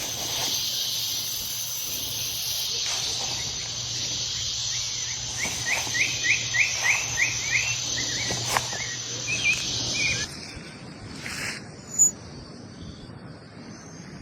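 A dense, steady high-pitched insect chorus, with a bird calling a quick run of about ten repeated sweeping notes in the middle. The insect buzz cuts off abruptly about ten seconds in, leaving quieter outdoor ambience with one sharp short chirp near the end.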